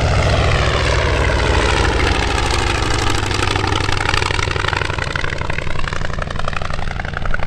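Engine of a propeller-driven aircraft running steadily, its sound dipping and rising again in pitch as it passes.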